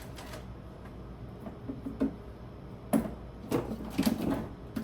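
Household items being handled while clearing out a fridge: a few light knocks and clicks of containers and packaging in the second half.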